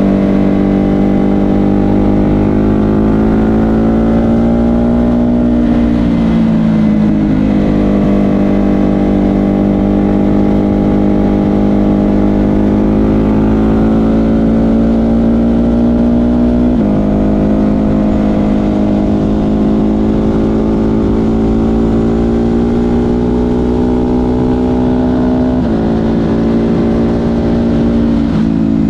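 Ducati Hypermotard 950 SP's L-twin engine through an SC Project exhaust, running under load while riding. Its pitch slowly rises and falls, dips once early on, and jumps abruptly twice later as the throttle or gear changes.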